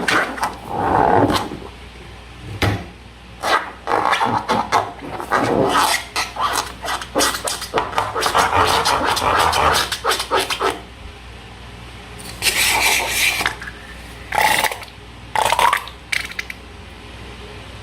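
Slime and rubber balloons being handled: irregular bursts of scraping, rubbing and squishing, close together for about the first ten seconds, then three shorter ones, stopping about sixteen seconds in.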